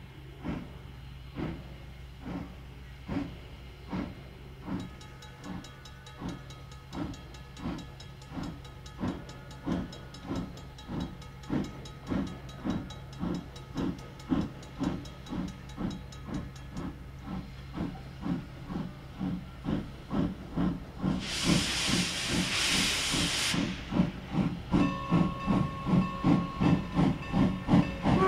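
Steam locomotive chuffing as it pulls away, the exhaust beats quickening from about one a second to about three a second and growing louder. About 21 s in comes a two-second blast of steam hiss, and a short whistle toot sounds near the end.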